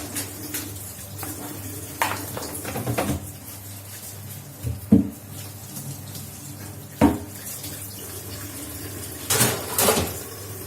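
Kitchen sink work: water running from a tap, with pots and utensils knocking against each other several times, the sharpest knocks about halfway through.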